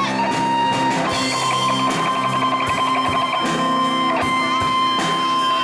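A band playing the instrumental break of a Cantonese pop-rock song, led by guitar. A lead line holds one long note through most of the passage.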